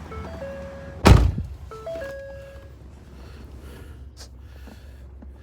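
The pickup's electronic warning chime, a short three-note tone repeating about every second and a half, with the truck's door shutting with a loud thunk about a second in. The chime sounds once more after the door shuts and then stops. A low steady hum runs underneath.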